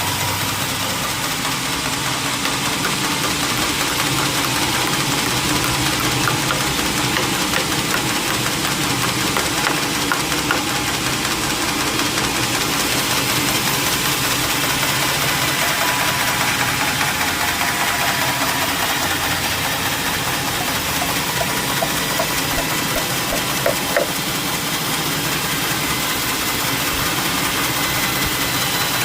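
Sawmill machinery running steadily with a constant engine drone and no break or change.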